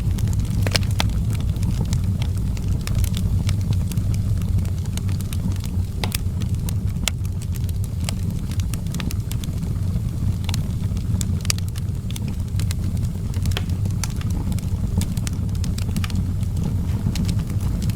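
Outdoor wood fire burning, with a steady low rumble of the flames and frequent sharp, irregular crackles and pops from the burning wood.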